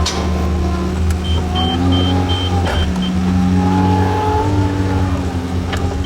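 John Deere 410 backhoe loader's diesel engine running steadily under load, with a whine that rises and falls in pitch as the hydraulics are worked. A few sharp clanks, and a faint rapid beeping between about one and three seconds in.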